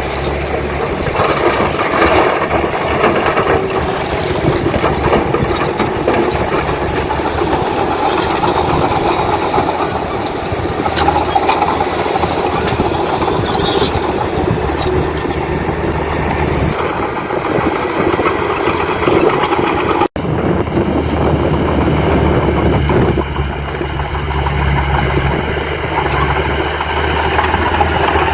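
Heavy diesel earthmoving machinery running at work, a steady engine sound with clanking. About two-thirds of the way in, the sound drops out for an instant and comes back with a stronger low engine hum.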